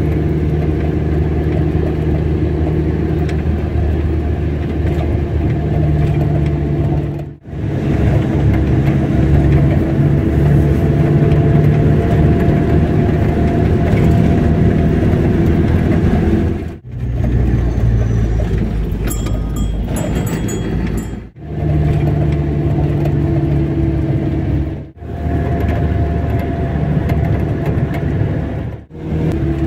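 Car engine and road noise while driving: a steady hum that changes a little in pitch from stretch to stretch. It breaks off sharply for a split second five times, where separate clips are joined.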